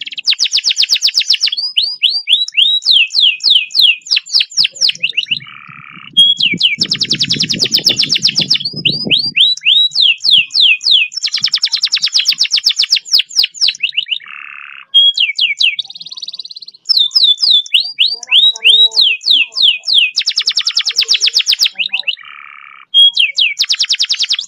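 Domestic canary singing a master song: long, very fast rolls alternating with runs of falling whistled notes and short buzzy notes, repeated phrase after phrase.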